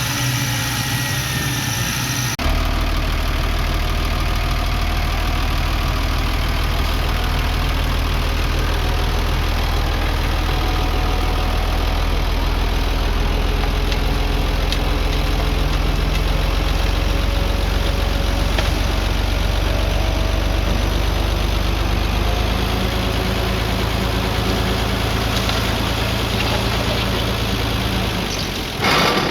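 Diesel engine of heavy earthmoving machinery running steadily with a deep, even hum. The sound changes abruptly about two seconds in, and there is a short loud noise near the end.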